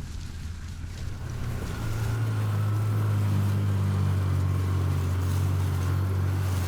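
Vehicle engine running steadily, growing louder about two seconds in as it draws near, then holding an even drone.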